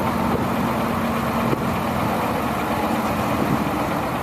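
A 2002 International truck's engine idling steadily.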